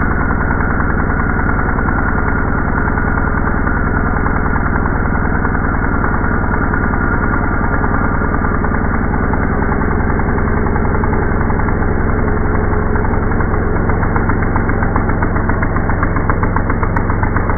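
ECHO EDR2400 engine drill's two-stroke engine running steadily, slowed down with the slow-motion footage so it sounds low, with a rapid even pulsing.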